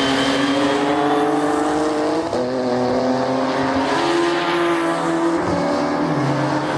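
Race car engines running hard, several at once, their pitch stepping up and down a few times.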